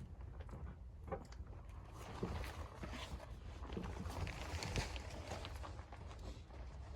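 Irregular crunching and rustling with scattered small clicks, denser in the middle, over a steady low rumble.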